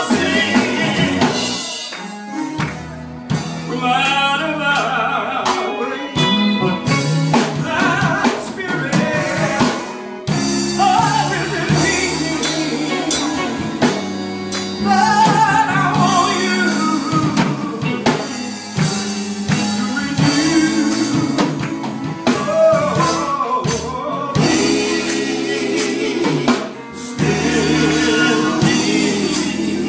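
A gospel song sung by voices over instrumental backing with sustained bass notes.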